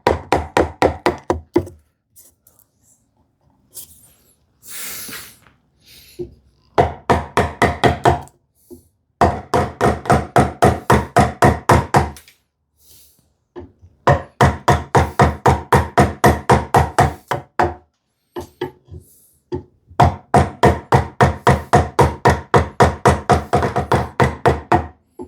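A mallet tapping a chisel through sapele in quick runs of light, even blows, about five a second, in several bursts with short pauses between them. There is a brief scraping hiss about five seconds in.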